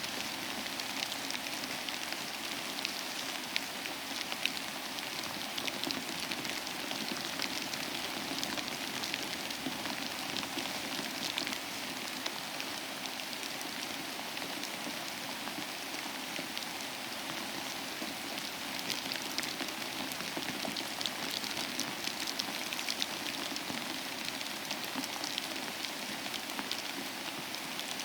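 Steady rain falling: an even hiss of drops with many small individual drop ticks running through it.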